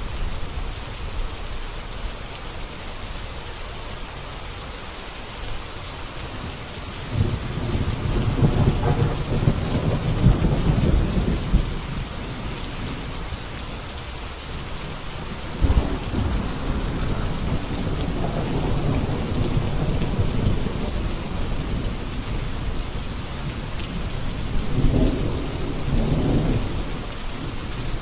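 Steady rain falling, with thunder rolling three times over it: a long rumble about a quarter of the way in, a sharper clap that rolls on just past the middle, and a shorter rumble near the end.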